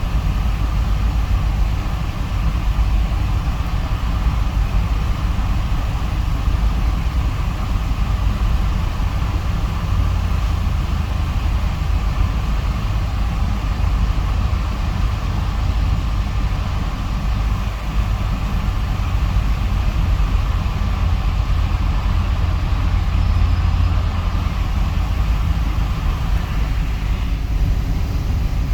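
Box truck driving, heard from inside the cab: a steady low rumble of engine and road noise.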